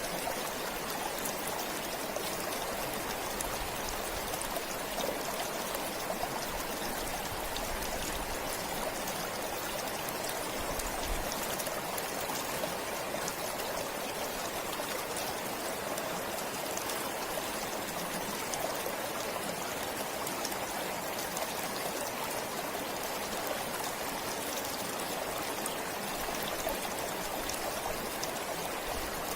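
Forest stream flowing steadily: an even rush of running water, flecked with small splashes.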